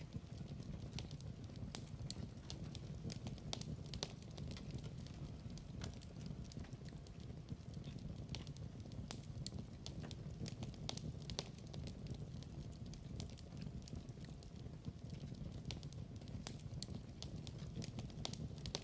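Wood fire burning in a fireplace: a steady low rumble of flames with irregular crackles and pops throughout.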